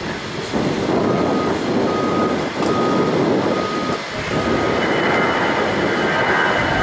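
A vehicle reversing alarm beeping about five times at an even pace over a steady rushing noise, then a steady high jet-engine whine rising in from about halfway through.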